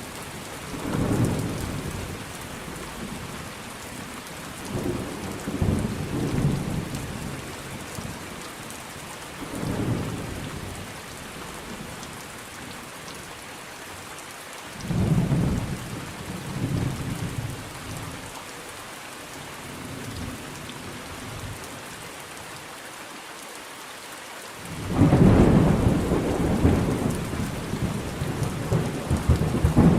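Steady rain with rolling thunder: several low rumbles come and go, and a louder, longer peal of thunder breaks out near the end.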